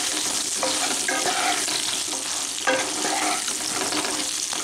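Pointed gourd (parwal) pieces sizzling steadily as they fry in hot mustard oil in a non-stick kadai. A wooden spatula scrapes and knocks against the pan a few times as they are stirred, the loudest knock nearly three seconds in.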